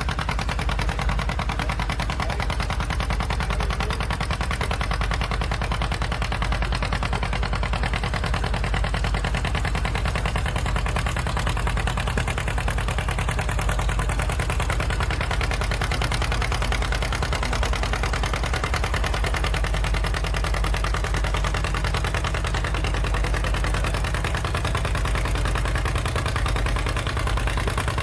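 Antique farm tractor engine running steadily, its exhaust a rapid, even train of pulses.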